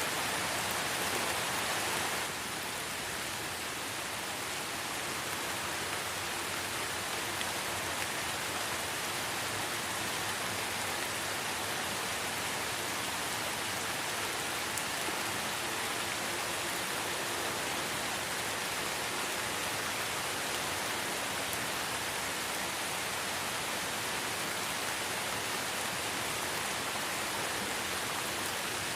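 Light rain falling in a forest, a steady even hiss of drops that drops slightly in level about two seconds in.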